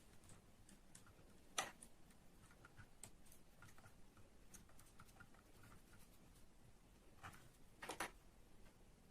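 Near silence with faint scattered ticks and two sharper clicks, one about a second and a half in and one near the end.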